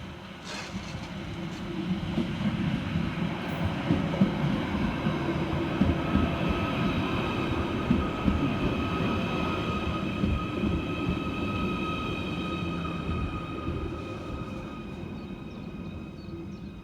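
Merseyrail Class 777 electric multiple unit arriving at a station: a low rumble with a steady high whine over it, growing louder toward the middle and fading away near the end.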